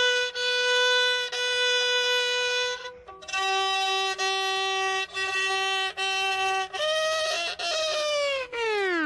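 Solo violin: a long held bowed note, then a lower note bowed in short repeated strokes, ending in a long slide downward in pitch.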